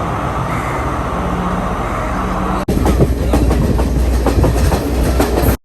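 Passenger train running on rails: a steady rumble, then about halfway through a louder clatter and clack of wheels over the track. It cuts off abruptly near the end.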